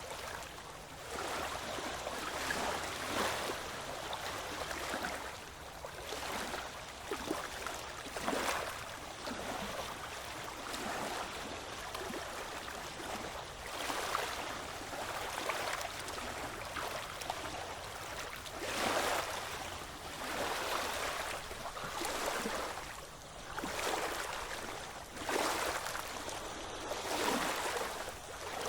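Ocean waves washing in, a new surge of splashing water every few seconds over a steady background rush.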